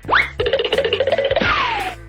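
Cartoon sound effects over background music: a quick rising glide, then a fast rattling trill, then a falling glide near the end.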